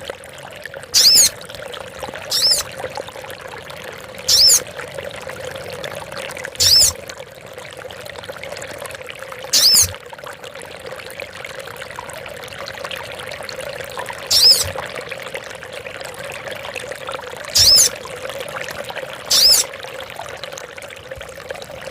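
Female sogon bird calling: a short, high-pitched call repeated about eight times at uneven gaps, over a steady trickle of running water.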